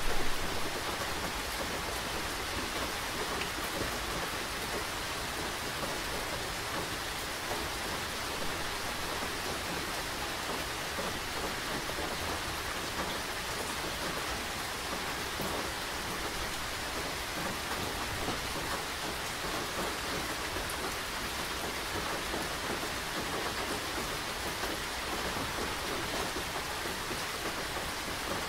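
Steady rain falling, an even, continuous wash of drops, briefly louder right at the start.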